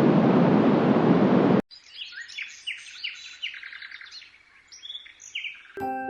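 Yogasleep Duet sound machine tracks: a steady rushing noise cuts off abruptly about a second and a half in, replaced by a recorded birdsong track of repeated chirps falling in pitch. Just before the end, a chiming lullaby melody begins.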